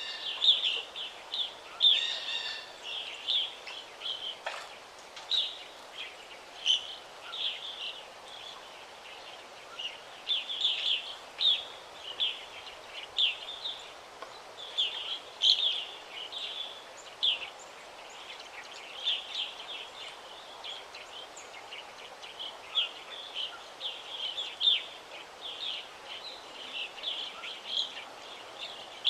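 Several songbirds chirping and trilling in quick short phrases, over a faint steady background hiss.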